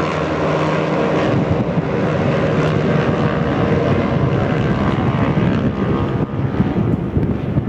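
Racing motorcycle engines running: a steady engine tone in the first second or so gives way to a rougher rushing noise, with wind on the microphone.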